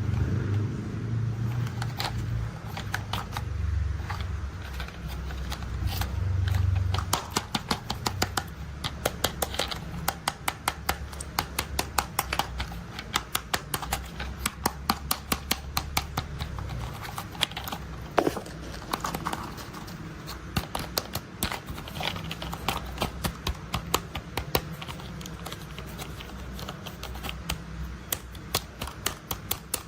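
Plastic toy construction vehicles being handled: a low hum for the first several seconds, then many quick, irregular clicks and rattles of plastic parts.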